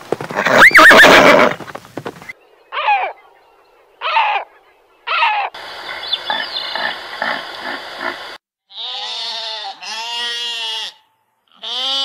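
A horse neighs loudly, followed by a run of animal calls: three short calls, then a longer pulsing call, from red deer. Then sheep bleat three times, the last cut off.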